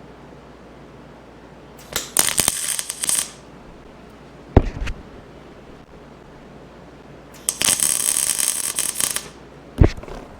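Electric arc welder crackling in two short bursts, one about two seconds in and a longer one at about seven and a half seconds, as a nut is welded onto a broken foot peg stub to give a grip for backing it out. Two single sharp knocks, one between the bursts and one near the end.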